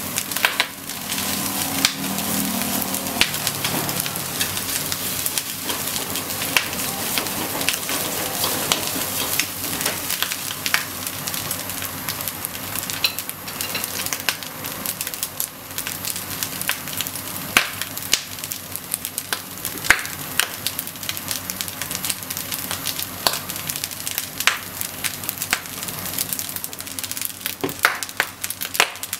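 Corn fried rice sizzling in a frying pan over a gas flame: a steady hiss with scattered sharp pops and crackles.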